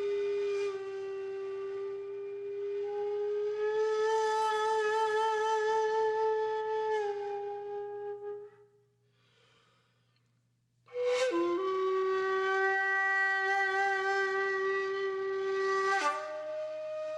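Background music: a slow, calm melody on a flute-like wind instrument, with long held notes and a gentle waver in pitch. The music breaks for about two seconds a little past halfway, then comes back on a new held note.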